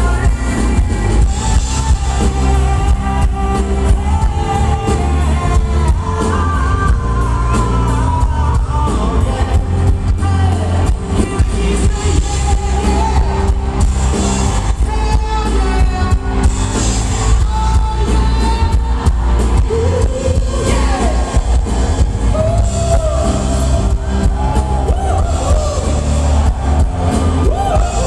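Live pop-rock band playing with a lead singer, heavy bass underneath the vocals, heard loud from within the audience.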